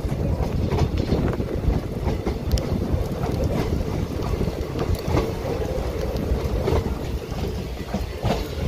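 Moving passenger train heard from an open door: a steady low rumble of the coaches running, with occasional clicks from the wheels and wind buffeting the microphone.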